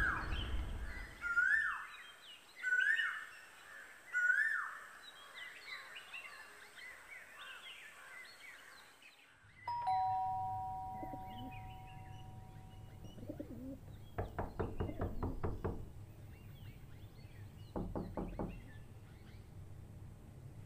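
A bird calls over and over, a short rising then falling chirp about every one and a half seconds, then fainter. About halfway through, a two-tone chime rings out and dies away, followed by two bursts of rapid knocking.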